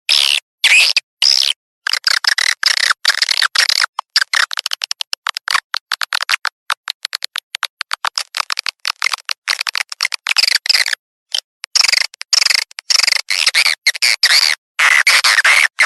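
Recorded edible-nest swiftlet calls, a lure track played to draw swiftlets into a bird house. Dense twittering chirps alternate with long runs of rapid clicks, chopped by short gaps, with no low end at all.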